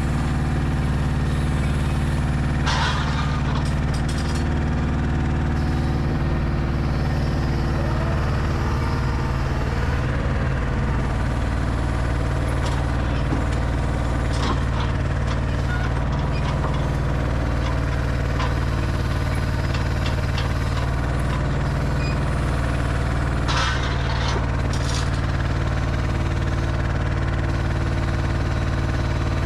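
Mercedes Actros L truck's diesel engine running steadily with a low, even drone, with brief hisses about three seconds in and twice near the end.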